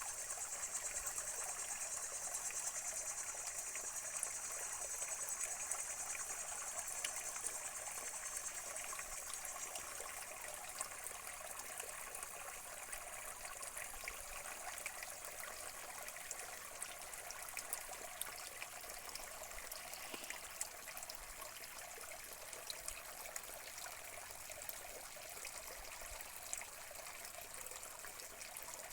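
A stream trickling and running over rocks, with a high hiss above it that fades out over the first ten seconds or so.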